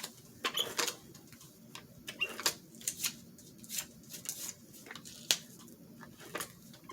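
Scissors cutting paper: a string of short, irregular snips while trimming the background off a paper cutout.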